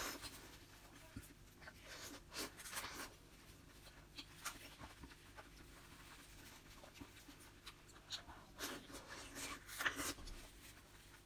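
Faint wet chewing and lip smacking as soft red dragon fruit flesh is eaten. Short irregular smacks come in clusters, the loudest about two to three seconds in and again toward the end.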